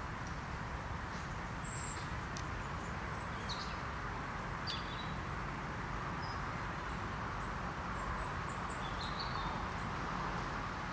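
Small birds chirping now and then, short high calls, over a steady outdoor background rumble.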